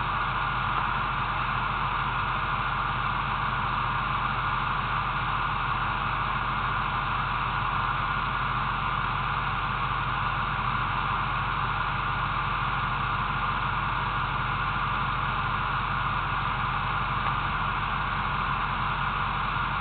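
Car engine idling with a steady low hum under a strong, even hiss from the recording.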